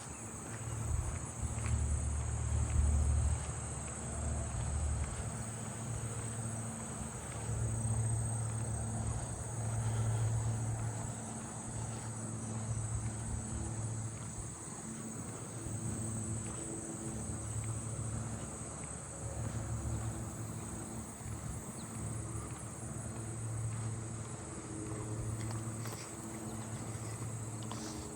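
Insects trilling steadily in one unbroken high-pitched drone, under an uneven low rumble.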